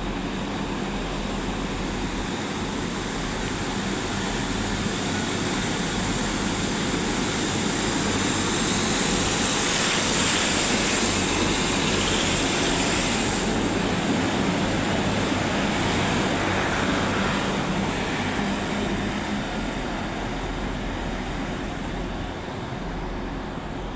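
Passenger train pulling out of the platform: engine hum and wheel and rail noise that build to a peak about ten seconds in, then slowly ease off, with a steady high whine throughout.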